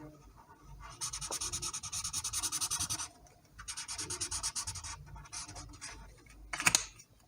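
A colouring tool scribbling on paper in fast back-and-forth strokes, filling in a shape. It comes in two spells, with a short pause between them, then fainter strokes and a single louder scrape near the end.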